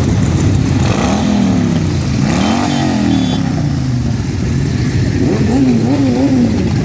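Motorcycle engines revving over a steady low rumble of running engines, with a long rise and fall in pitch early on and a run of quick throttle blips near the end.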